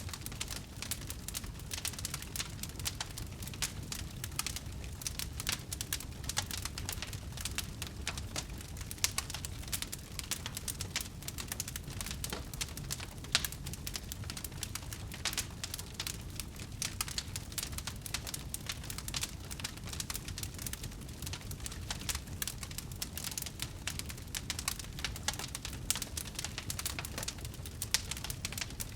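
Wood bonfire crackling steadily: a dense stream of small irregular snaps and pops over a low rumble of the flames.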